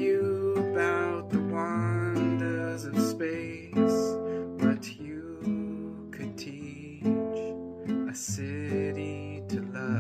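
Acoustic guitar strummed in a steady rhythm as song accompaniment.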